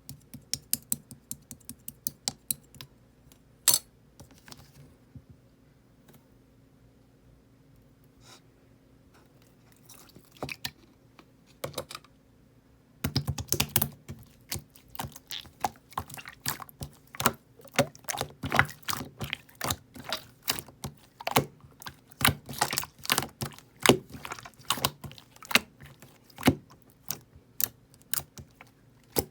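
Slime being squished and played with, making sharp sticky clicks and pops: scattered at first, a near-quiet stretch of several seconds, then dense rapid clicking from about halfway through.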